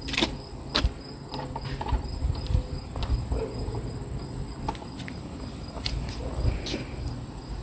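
Crickets or similar insects trilling steadily in a high, continuous chorus, with a few sharp clicks over a low background rumble.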